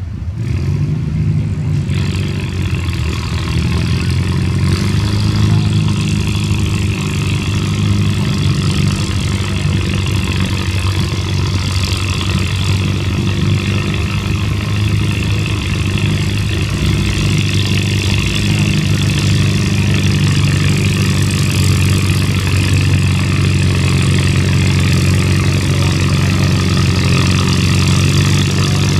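Antique farm tractor engine running loud and steady. Its pitch climbs over the first few seconds, then holds as it works under load in a tractor pull.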